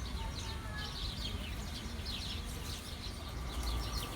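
Small birds chirping busily, a dense run of short high chirps, over a steady low rumble.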